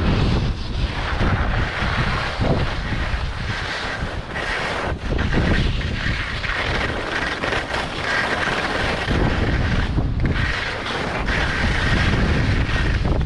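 Wind buffeting the camera microphone with a heavy rumble, over the hiss of skis scraping across crunchy snow, which eases off briefly about five and ten seconds in.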